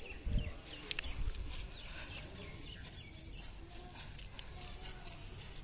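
Birds chirping in the background with short, scattered chirps, over a low rumble of wind on the microphone. There is a sharp click about a second in.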